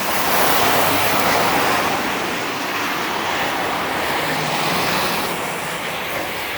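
Passing road traffic: a steady hiss of car tyres on the road, loudest about a second in and slowly fading, with a faint engine hum underneath.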